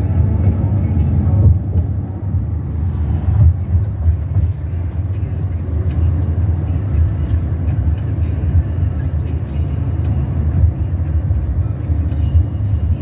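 Steady low rumble of a car driving, road and engine noise heard from inside the moving car.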